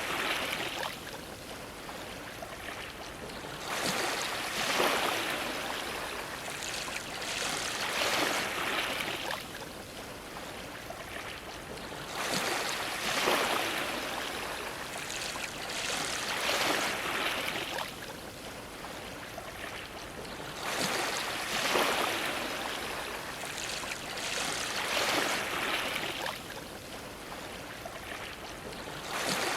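Ocean waves washing against a dock, each wave a swelling splash of water about every three to four seconds over a constant wash.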